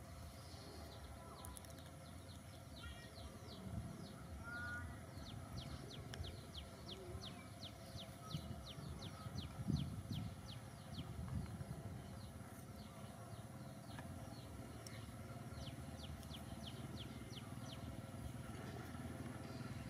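A bird calling: a fast series of short, high, downward-slurred notes, about three a second, lasting several seconds, over a steady low rumble, with a dull low bump about halfway through.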